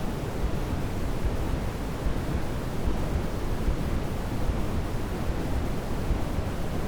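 Steady sleep-aid noise: an even, unbroken hiss, heavy in the bass and thinning toward the top, closer to pink noise than flat white noise.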